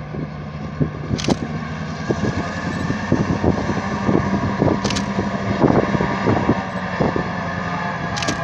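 Train rolling past, its steel wheels knocking and clacking irregularly over the rails above a steady low drone.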